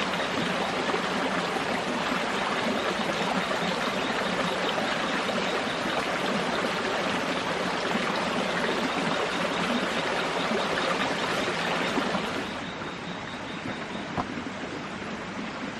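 Running water of a forest stream, a steady rushing splash that drops to a quieter, thinner flow about three-quarters of the way through, with a small knock near the end.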